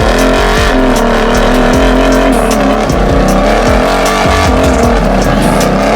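Side-by-side UTV engines running at high revs under load, loud and continuous.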